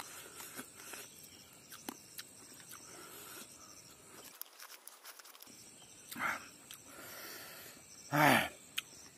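Mouth sounds of eating by hand: soft chewing with small lip smacks and clicks, over a steady high insect drone. About six seconds in comes a short voiced sound, and near the end a louder one that falls in pitch.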